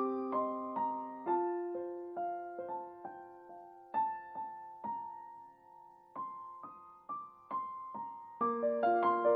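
Background music: a slow, gentle piano piece of single notes and chords, thinning out in the middle and building again near the end.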